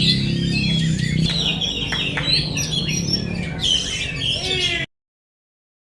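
Oriental magpie-robin (kacer) singing a fast, varied song of chirps and sliding whistles over a steady low hum. The sound cuts off abruptly near the end.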